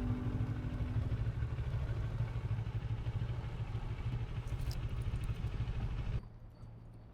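Moto Morini X-Cape 650's parallel-twin engine running steadily at low revs, then cutting off suddenly near the end. Guitar music fades out about a second in.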